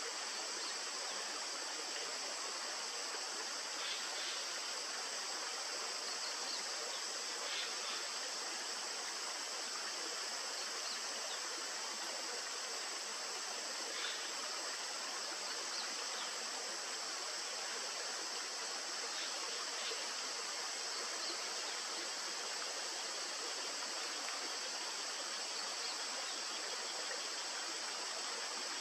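Steady rushing of a river or stream, with an even high-pitched hiss over it.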